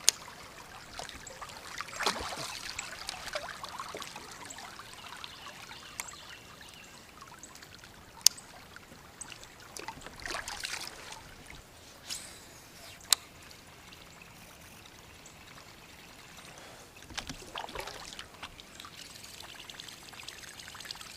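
Water trickling and splashing around a kayak on a river, rising in a few short swells, with a few sharp clicks or knocks.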